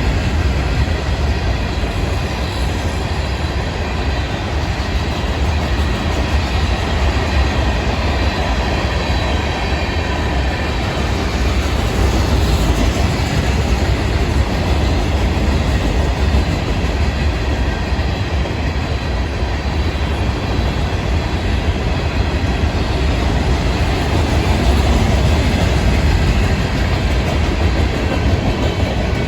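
Florida East Coast Railway freight train's cars rolling past at a steady pace, steel wheels running on the rails in a continuous loud rumble.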